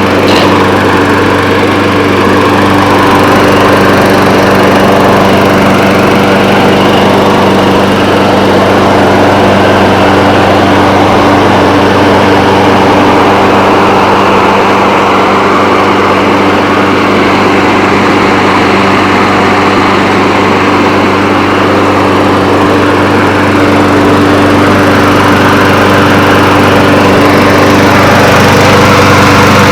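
Briggs & Stratton 675 Series 190 cc single-cylinder engine on a walk-behind lawn mower, running loud and steady just after starting. The start is neither fully cold nor fully warm: the engine has sat for a couple of days.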